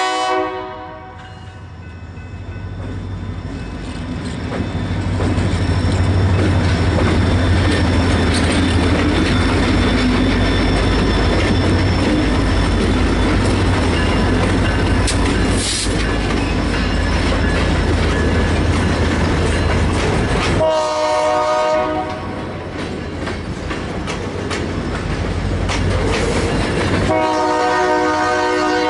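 Diesel freight train passing close by: the horn, several tones at once, sounds briefly at the start, then the locomotive engines run loud with the cars clattering over the rails, and the horn blows again for about a second two-thirds of the way through and once more near the end.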